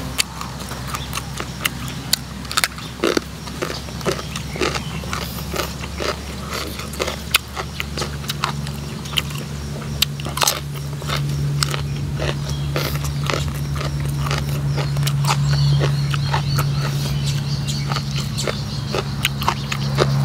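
Close-up chewing and crunching of raw vegetables, with many short sharp mouth clicks and bites. A low steady hum runs underneath and grows louder about eight seconds in.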